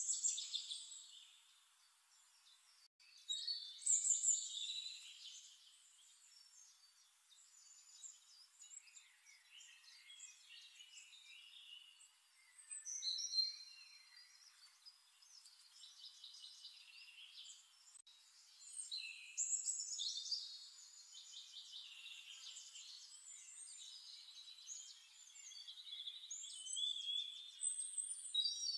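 Small birds chirping and singing in short bursts of high, gliding notes, repeating every few seconds.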